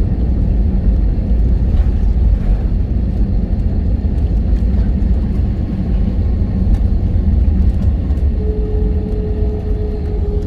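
Cabin noise in an Airbus A321-211 rolling on the ground after landing: a loud, steady low rumble of the CFM56 engines and the wheels on the runway or taxiway. A faint steady hum joins about eight seconds in.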